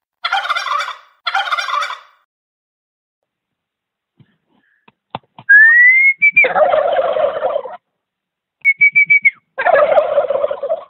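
Turkeys gobbling: two short gobbles at the start, then after a pause a rising whistle followed by a long, loud gobble. A few quick high notes and another gobble come near the end.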